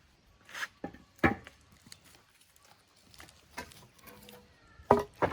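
Scattered sharp knocks and taps, a handful spread over a few seconds, the loudest about a second in and just before the end.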